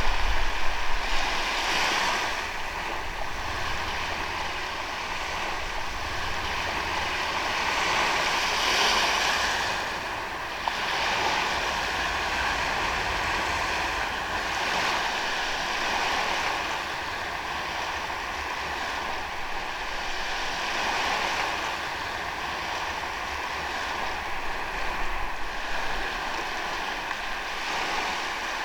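Ocean waves washing onto a sandy beach, a steady hiss of surf that swells as each wave breaks, every five to seven seconds.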